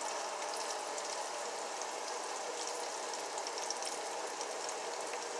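Chicken gizzards frying in oil in two skillets, a steady sizzle and bubbling with many small crackling pops, as they near being done.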